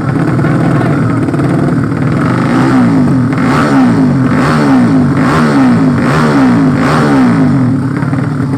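Drag-race motorcycle engine from the 200cc sleep-engine class, running and then revved in about six quick repeated blips through the middle.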